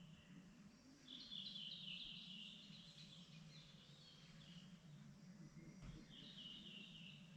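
Faint songbird singing in two quick chirping phrases, one about a second in and a shorter one near the end, over a steady low background hum.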